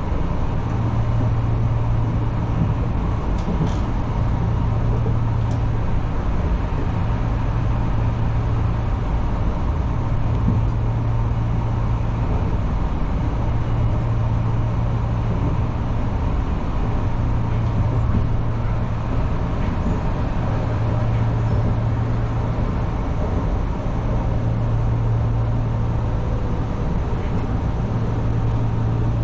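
Enshu Railway electric train running at speed between stations, heard from the cab: a steady rumble of wheels and motors. Under it a low hum fades briefly and returns every three seconds or so.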